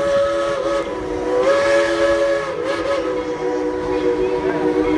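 Steam locomotive's chime whistle blowing one long continuous chord of several notes at once, its pitch wavering slightly a couple of times.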